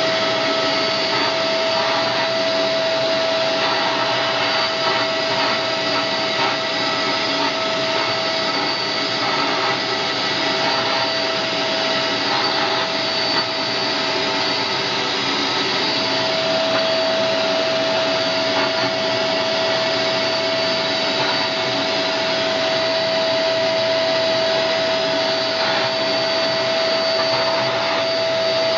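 Vacuum cleaner running steadily, a constant whooshing with a steady whine over it, its nozzle being run over a dog's coat.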